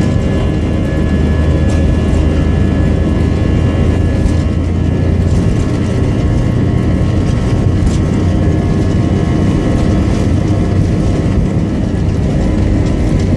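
Boeing 737 jet engines running at a steady, loud level, with a deep hum and several steady whining tones, plus a few faint rattles.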